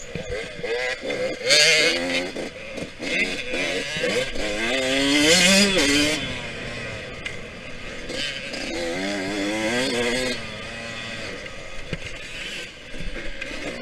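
Yamaha YZ125X two-stroke single-cylinder dirt bike engine being ridden hard, its pitch rising and falling several times as the throttle is opened and closed. There are loud bursts of hiss about one and a half seconds in and again around five seconds in.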